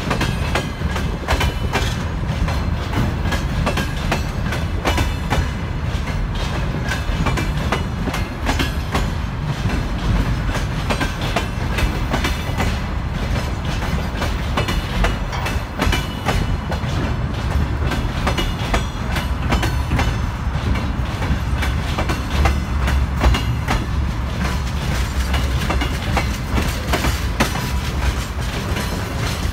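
Freight train wagons, container flatcars and boxcars, rolling past: a steady rumble of wheels on rail, with frequent clacks and knocks as the wheels cross rail joints.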